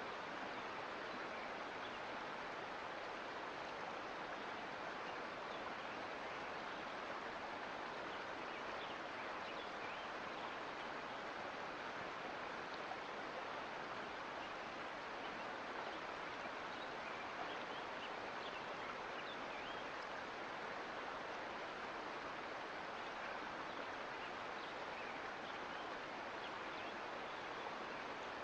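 Sierra Nevada mountain creek flowing: a steady rush of water with small, bright splashes scattered through it.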